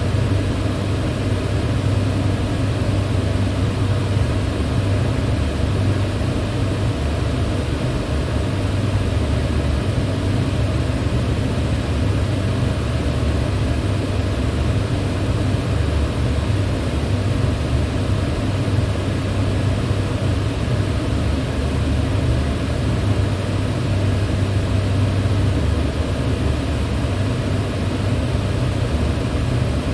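Electric fan running steadily: a continuous rushing of air over a low motor hum.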